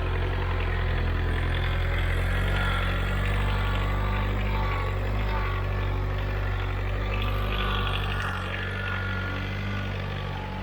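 Homemade mini tractor's Volkswagen Golf 1.6 turbo-diesel four-cylinder engine running steadily, with the tractor at work ploughing. It gets a little quieter near the end.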